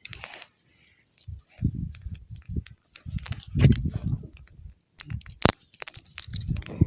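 Wind buffeting the microphone in uneven gusts, with scattered sharp cracks and snaps of twigs and branches being broken by hand for a campfire.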